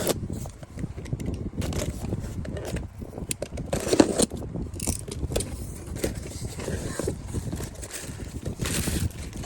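Hands handling a graphics card and its packaging: scattered clicks, scrapes and rustling, with a louder knock about four seconds in.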